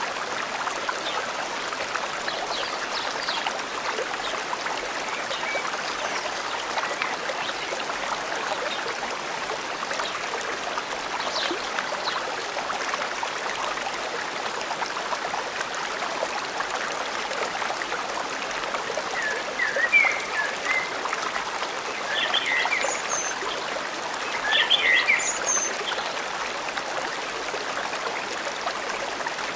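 Stream flowing steadily, with short bird chirps, mostly in two bursts in the second half.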